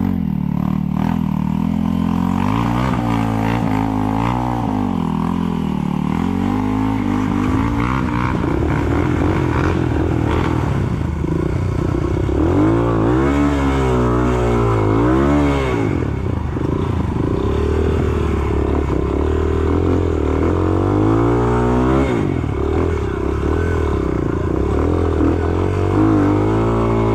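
Off-road enduro motorcycle engine running under load through mud. The revs rise and fall again and again as the throttle is worked, with some clatter from the bike.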